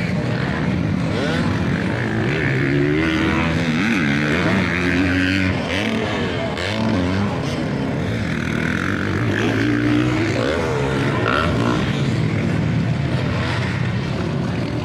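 Several motocross dirt bike engines revving as the bikes race, their pitches rising and falling and overlapping throughout.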